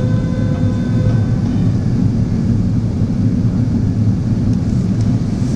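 Steady low rumble of airflow and engines inside an Airbus A380's upper-deck cabin in flight. Faint music fades out in the first two seconds.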